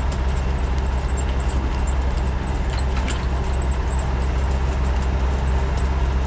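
A Land Rover 90's 300Tdi 2.5-litre four-cylinder turbo-diesel engine running steadily under way, heard from inside the soft-top cab over road noise, with scattered light ticks.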